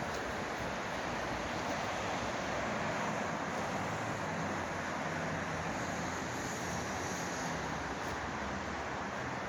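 Steady wind with a low, even rumble of distant city traffic.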